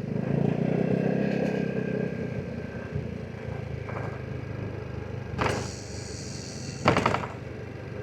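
Vespa GTS 300 SuperSport's single-cylinder four-stroke engine running. It is louder for the first two seconds, then settles to a steady idle. Two short clattering knocks come near the end.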